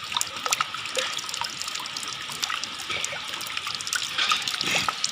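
Water trickling steadily with many small irregular drips and plinks.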